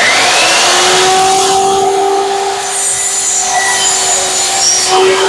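Electric power saw cutting through a wood board: the motor starts with a quick rising whine, then runs steadily with a hissing rasp of the blade in the wood.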